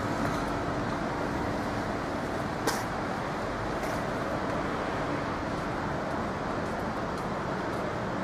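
Steady motor-vehicle noise with a faint steady hum, and one sharp click about two and a half seconds in.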